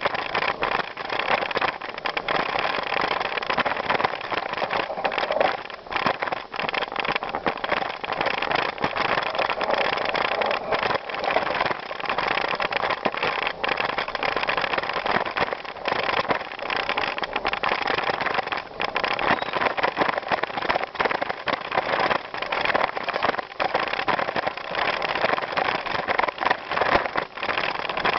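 Continuous riding noise of a bicycle on a gravel trail: tyres crunching over the loose surface with a constant crackling rattle that jumps up and down in loudness.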